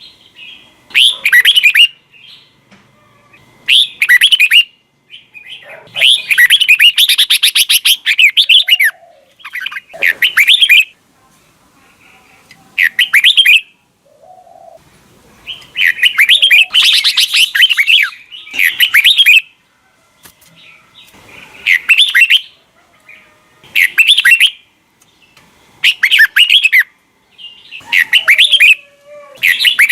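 Red-whiskered bulbul singing: short bright whistled phrases, one every second or two, with two longer runs of rapid chattering notes about six and sixteen seconds in.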